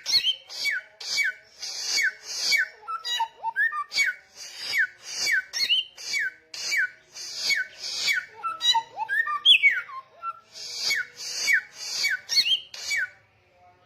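A samyong songbird singing vigorously and without pause. It repeats a loud phrase about twice a second, each a harsh rasp with a clear whistle falling in pitch, and stops shortly before the end.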